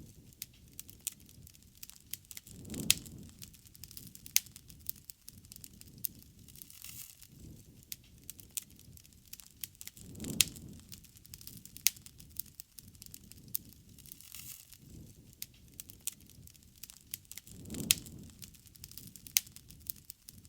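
Wood bonfire crackling, with frequent sharp pops of burning wood. A low rush of flame swells and fades three times, about every seven seconds.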